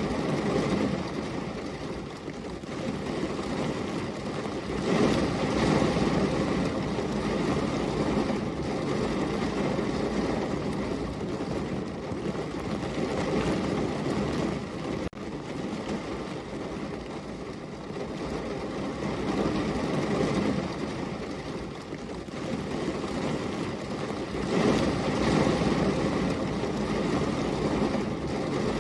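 Steady heavy rain falling, a dense rushing hiss that swells louder a few seconds in and again near the end.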